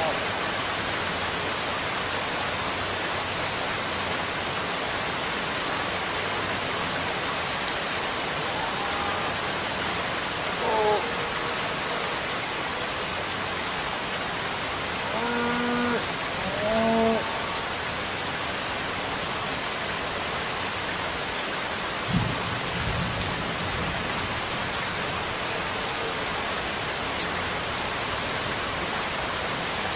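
Steady rainfall with scattered drops ticking on a surface. A few short pitched calls rise above the rain about 11 and 16 seconds in, and a low thump comes about 22 seconds in.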